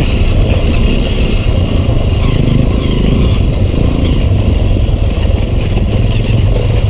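Honda CRF150L's 150cc single-cylinder four-stroke engine running steadily under way as the dirt bike rides a rocky trail.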